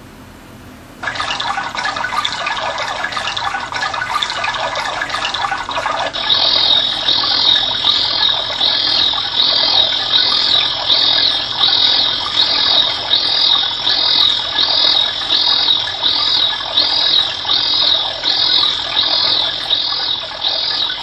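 Recorded nature sounds played as a listening stimulus: a steady rush like running water starts about a second in, and from about six seconds in a high-pitched call repeats evenly, about three calls every two seconds, over it.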